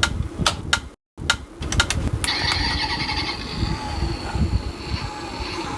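Diecast Toyota Alphard model car's built-in sound module playing an engine-start sound effect through its small speaker, set off by pressing the car down. A few clicks come first, and the steady engine sound starts about two seconds in.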